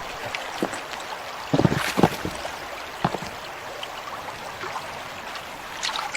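Ice-free river water rushing steadily over rocks, with a few short splashes and knocks, the loudest about a second and a half to two seconds in, as a Japanese macaque turns over stones in the water for insect larvae.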